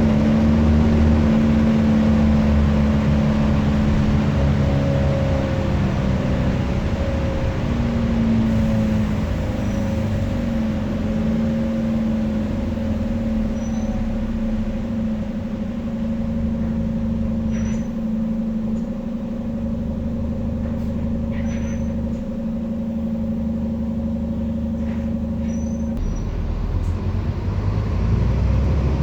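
Scania N230UD double-decker bus, with its nine-litre five-cylinder diesel, running under way. A steady whine sinks slightly in pitch over the first few seconds, holds, then cuts off about three seconds before the end, over a low rumble. A few faint squeaks and rattles come through in the second half.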